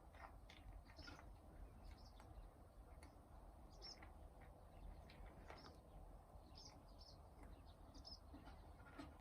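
Faint, scattered high-pitched chirps, many short calls at irregular intervals, over a steady low rumble.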